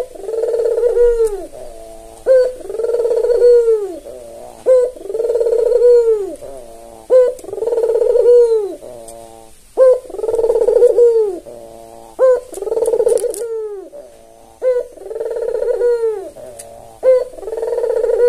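Albino Barbary dove (puter) cooing over and over: each call is a short sharp note followed by a long rising-and-falling coo, repeating about every two and a half seconds.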